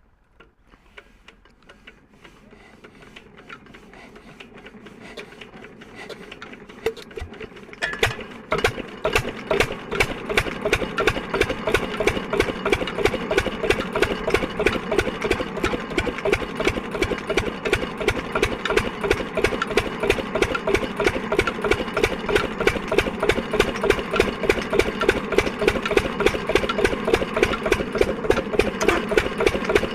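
Lister diesel engine being started: it spins up, getting louder and faster over about eight seconds, catches with a sharp knock, then runs with a steady, even beat.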